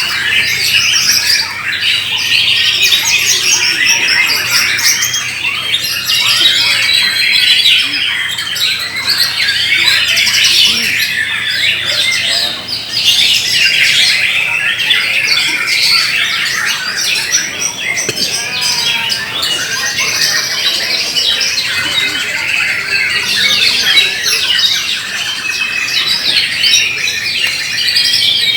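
Several white-rumped shamas (murai batu) singing at once: a dense, unbroken tangle of rapid, varied whistles and chattering phrases, competing in a contest.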